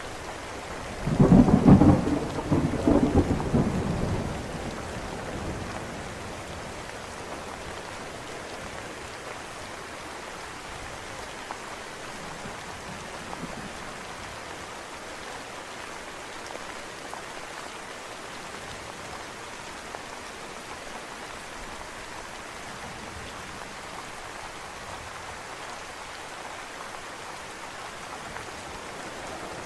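Steady rain falling with a loud rumble of thunder about a second in that rolls on for a few seconds and then fades.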